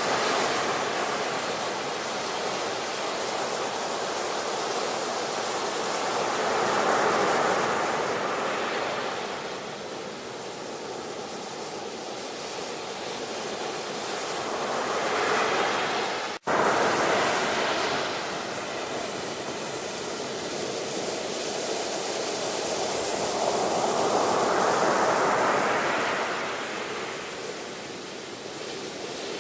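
Ocean surf: waves break and wash in with slow swells and ebbs, one about every eight to ten seconds. About halfway through the sound drops out for a split second.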